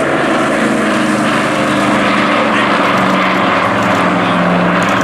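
Vintage piston-engined propeller aircraft flying past at an airshow display: a loud, steady engine drone with propeller noise.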